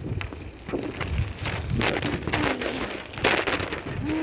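Heavy rain hissing around a moving bicycle, with several loud knocks and rattles from the bike's wire basket, which holds the recording phone, jolting over bumps.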